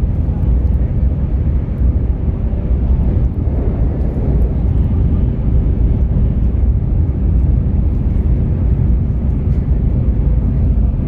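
Shinkansen Mizuho bullet train running at speed, heard from inside the passenger cabin: a steady, loud low rumble with a faint steady hum over it.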